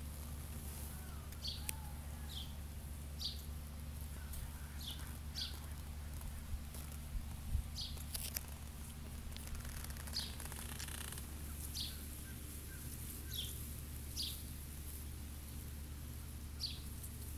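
A bird chirping: short, high, falling chirps repeated irregularly about once a second, over a steady low rumble.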